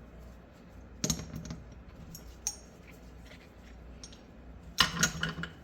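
Metal clicks and clatter of the SKS rifle's bolt and bolt carrier being handled and fitted into the receiver: a sharp clack about a second in, a few light ticks, then a quick cluster of clicks near the end.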